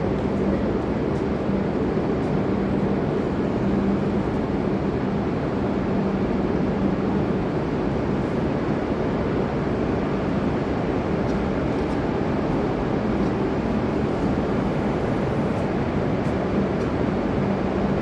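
Steady rumbling hum of Shinkansen trainsets standing at an elevated station platform, with a faint steady tone underneath and no distinct knocks.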